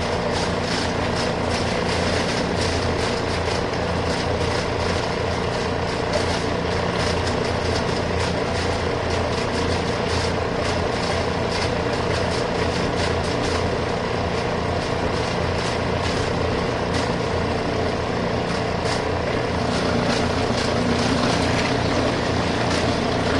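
Portable twin-tub washing machine's spin dryer running: a steady motor hum with water swirling inside the spinning drum.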